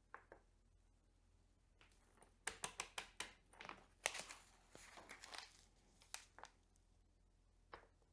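Faint, irregular clicks and clatters of a torque wrench and bottom bracket tool being handled and set. They are loosely clustered through the middle, and no steady ratchet rhythm is heard.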